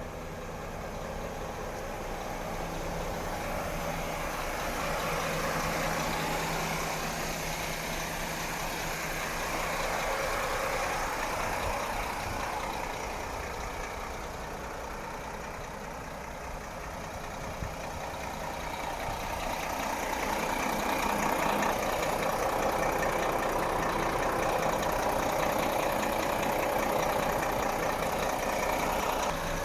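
Renault Kerax 460 truck's diesel engine running at idle, its sound slowly swelling and fading twice.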